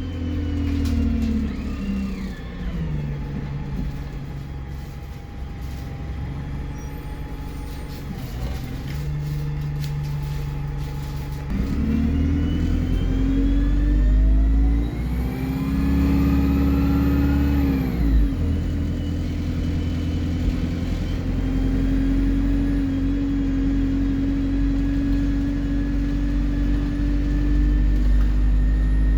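Alexander Dennis Enviro 200 bus engine slowing down, then pulling hard from about twelve seconds in, with a high turbo whistle that rises and falls. The engine note drops back at about eighteen seconds and runs on steadily.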